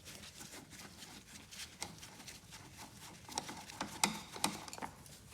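Scattered light clicks and taps of a plastic air filter cover being unclipped and opened and the air filter lifted out of its box, with a cluster of sharper clicks near the end.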